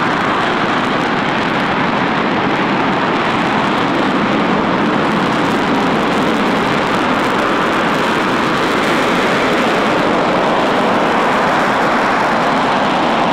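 RS-25 liquid-fuel rocket engine test-firing on a test stand: a loud, steady rushing noise with no change in level.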